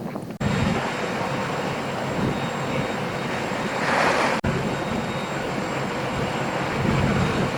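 An engine runs with a steady low drone under rushing wind noise, with a louder gust of hiss just before the middle. The sound is cut abruptly twice.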